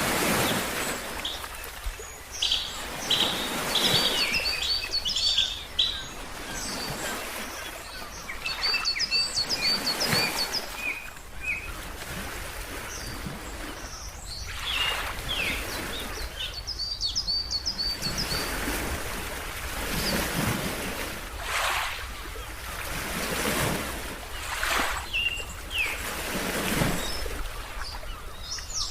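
Ocean waves washing in and out in repeated surges, with birds chirping over them in quick runs of short, high notes that come in several bursts.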